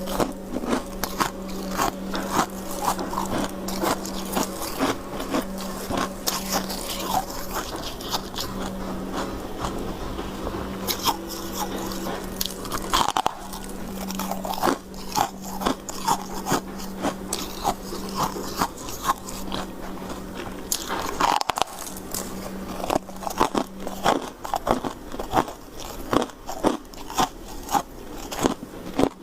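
A person biting and chewing hard white ice, with many sharp crunches in quick succession. A low steady hum runs underneath and breaks off briefly twice.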